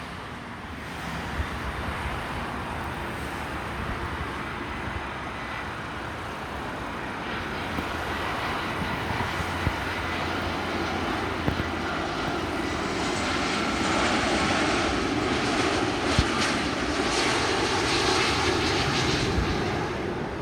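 Airbus A330-300 jet airliner on final approach, its engine noise growing steadily louder as it comes near, with a faint whine over the rush. It is loudest in the last third and eases slightly at the very end.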